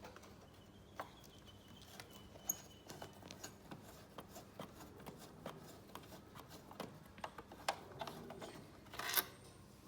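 Scattered small clicks and light scraping of hand tools working bolts out of a caravan window frame, with a louder clatter about nine seconds in.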